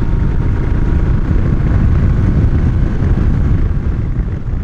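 Moto Guzzi motorcycle under way at a steady speed: a loud, steady rush of wind over the microphone with the engine's running sound beneath it.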